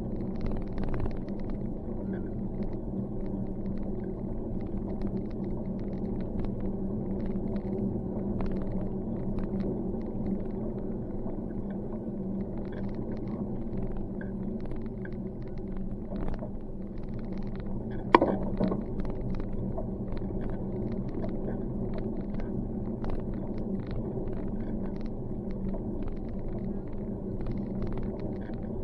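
Steady low rumble of riding a bicycle, with one sharp click or knock about two-thirds of the way through.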